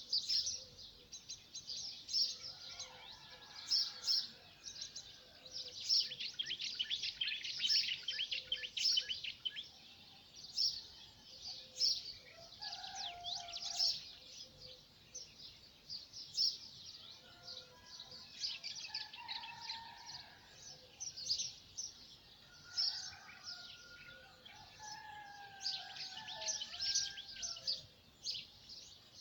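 A chorus of several songbirds, with dense rapid high chirps and twitters throughout, and lower whistled phrases coming in now and then.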